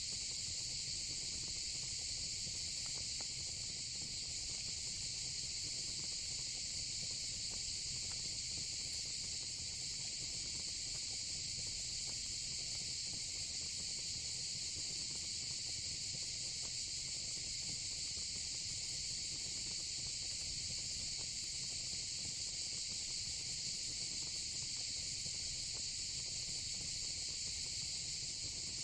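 A steady, unbroken insect chorus of crickets and cicadas, high-pitched and even, over a low fire-pit rumble with a few faint crackles.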